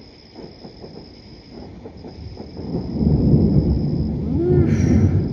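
Thunder rumbling, swelling about two and a half seconds in and staying loud to the end, over a steady high trill of crickets. Faint scattered pops in the first couple of seconds are distant fireworks, which the thunder then drowns out.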